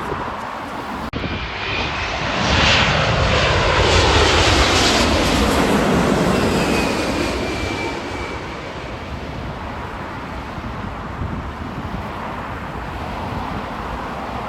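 Jet airliner passing close overhead. Its engine noise builds to a peak a few seconds in and then fades away, with a whine that falls in pitch as it goes past.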